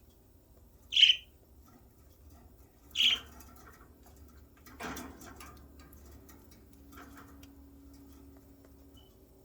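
Pet budgerigar giving two short, sharp chirps about two seconds apart, with a softer rustling noise a couple of seconds after the second.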